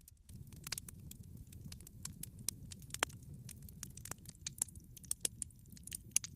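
Wood log fire crackling, with irregular sharp pops over a steady low rumble of the burning fire. One louder pop comes about halfway through.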